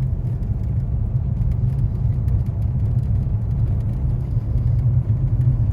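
Steady low rumble of a car being driven, engine and tyre noise on a road with melting snow.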